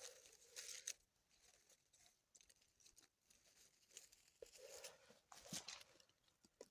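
Faint rustling and crackling in short spells, once near the start and again past the middle.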